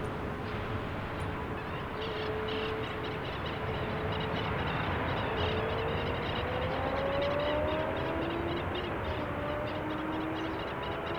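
Aircraft engine noise: a steady rumble carrying humming tones, one of which rises in pitch about halfway through. Rapid high chirps, like small birds, run alongside it from about two seconds in.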